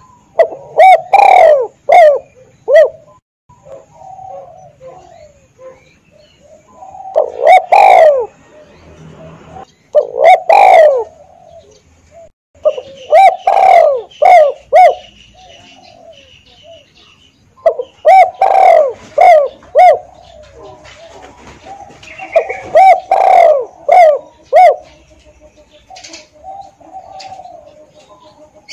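Spotted dove cooing loudly in repeated phrases of several coos each, about six phrases with short pauses between them and fainter coos in the gaps.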